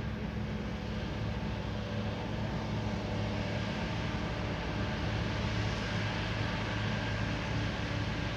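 Heavy diesel farm machinery running steadily, a constant engine drone with a noisy wash over it.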